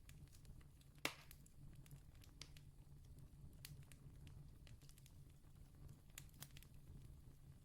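Campfire crackling faintly, with scattered small pops and one sharper pop about a second in, over a low steady rumble.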